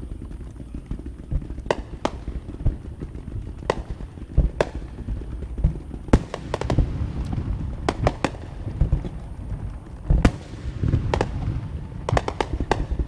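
Fireworks and firecrackers going off: a dozen or so sharp bangs at irregular intervals, closer together near the end, over a continuous low rumble.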